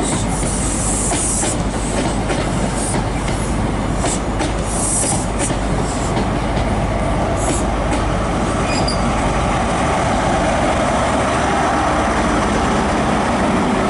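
InterCity 125 HST rolling slowly along a station platform, with steady rumbling, wheels clicking over rail joints and short high wheel squeals, mostly in the first half.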